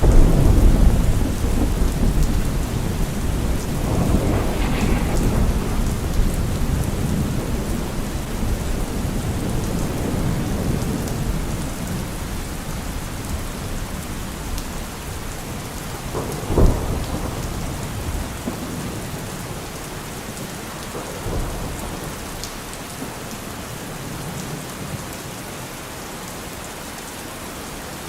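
Steady rain falling, with thunder: a long low rumble at the start that dies away over about ten seconds, and a sharper crack of thunder a little past halfway.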